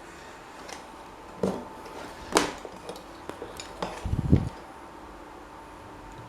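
Metal parts being handled on a workbench: a few separate clinks and knocks, the sharpest about two and a half seconds in, then a dull low thud around four seconds.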